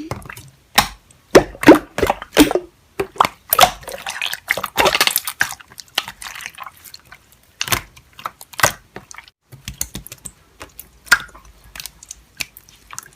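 Slime being squished and pressed by hand, making irregular wet squelches and sticky clicking pops.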